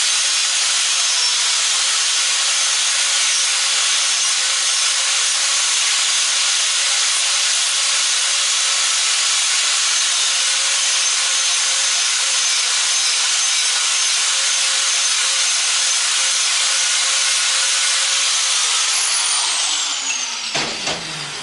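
Angle grinder cutting into a transformer's copper winding: a loud, steady grinding hiss. Near the end it is switched off and the motor winds down, its whine falling in pitch.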